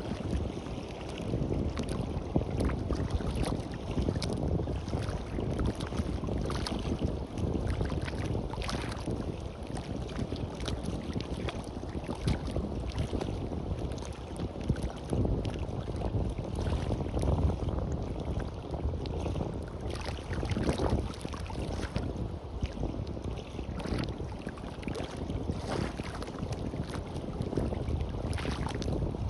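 Wind buffeting the microphone over waves washing on the beach: a steady rushing noise, uneven from moment to moment.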